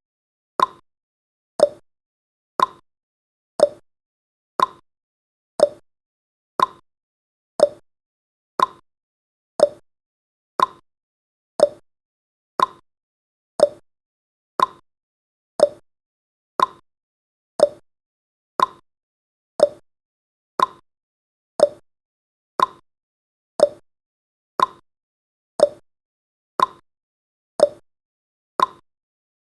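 Clock-tick sound effect of a countdown timer, one short sharp tick every second, steady and even.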